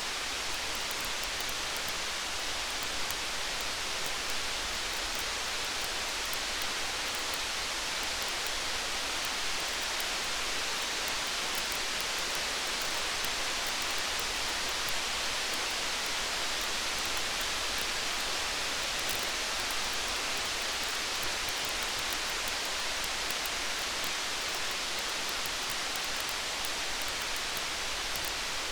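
Steady rain with a campfire mixed in: an even hiss with faint small ticks throughout.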